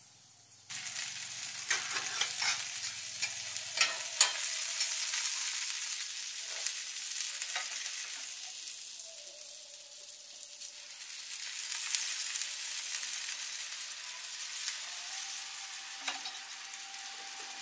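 Oil poured onto a hot flat iron griddle bursts into a sizzle under a second in, then keeps up a steady hissing sizzle with scattered crackles and pops as two quail fry in it.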